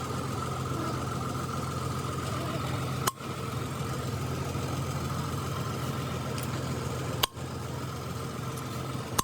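Steady low drone of running machinery with a faint high whine, broken by sharp clicks about three and seven seconds in.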